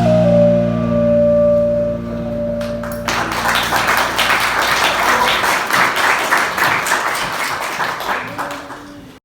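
The final held chord of a hymn rings out and ends about three seconds in, and the audience breaks into applause that fades away near the end.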